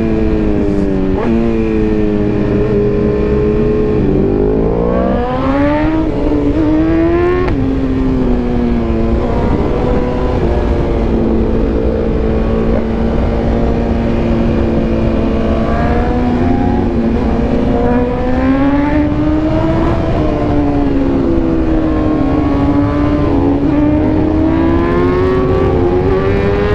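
Superbike engine under way, the revs climbing and dropping through the gears: a climb with a sudden drop about seven seconds in, a long steady cruise, then the revs ease off and climb again near the end, over heavy wind rush.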